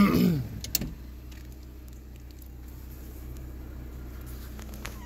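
Steady low hum of a car engine idling, heard from inside the cabin, with a single click shortly after the start. Near the end an adult tortoiseshell cat in a pet carrier starts to meow.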